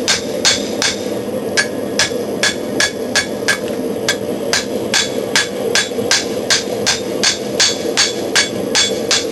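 Forging hammer striking a hot steel knife blade on an anvil in a steady rhythm of about three blows a second, each blow with a short metallic ring, as the cutting edge is drawn out. Beneath it runs a steady hum from the forced-air gas forge.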